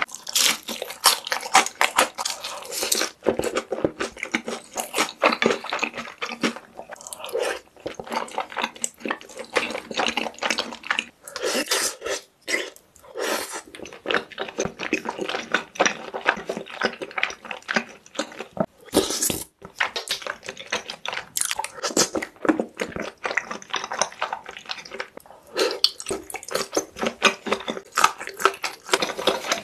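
Close-miked chewing of soft food in a creamy sauce: rapid, wet, irregular mouth clicks and smacks, with a couple of short pauses.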